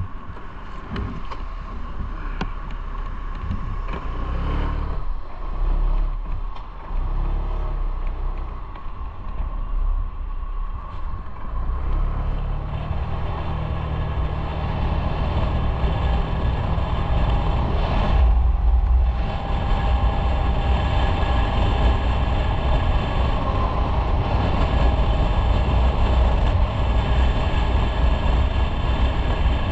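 Motorcycle engine running: uneven at first, then a steadier, stronger drone from about twelve seconds in as the bike gets under way.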